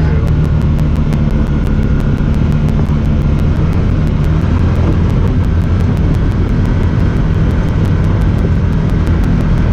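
Honda Talon 1000R side-by-side's parallel-twin engine running steadily under way, with rough-ground noise. Over it runs a rapid high ticking, about six ticks a second, which is noise from the camera itself.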